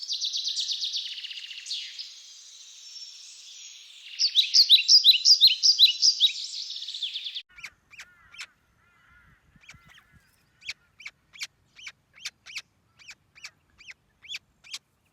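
Parrots screeching: a dense run of rapid, harsh calls, loudest about four to seven seconds in, that stops abruptly. After that come short, sharp single calls repeated about twice a second.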